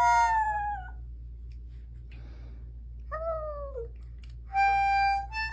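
A cat meowing twice, each a single falling call: one at the start and a lower, shorter one about three seconds in. Near the end, music with steady held reedy notes begins.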